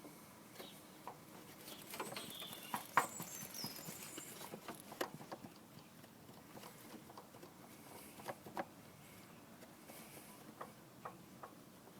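Scattered light clicks and taps at irregular intervals, busiest between about two and five seconds in, with no engine running.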